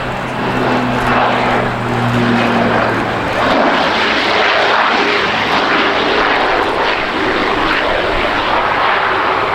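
Airliner's jet engines passing close by: a loud, steady rush, with a low hum that fades out about three seconds in.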